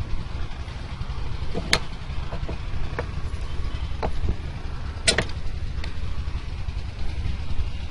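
A few short, sharp clicks and knocks from engine parts and tools being handled and set in place on a diesel water-pump engine, over a steady low rumble.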